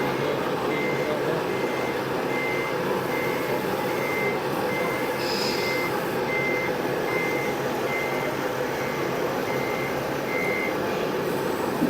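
Reversing alarm on a working vehicle loading a dumper truck, beeping about twice a second with an engine running underneath. The beeping stops near the end.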